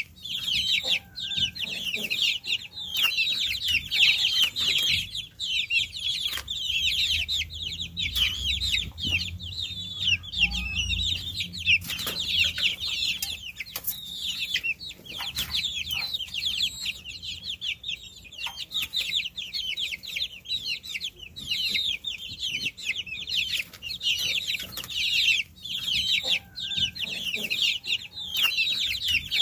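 A flock of baby chicks peeping: many short, high-pitched chirps overlapping without a break.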